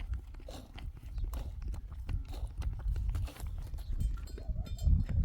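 Sheep moving about at close range: irregular knocks and shuffling of hooves, over a low rumble.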